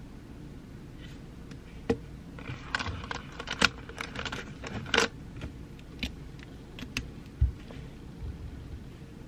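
Small objects handled on a desk: a run of sharp clicks and rustles, densest a couple of seconds in and dying away after about seven seconds, over a steady low room hiss.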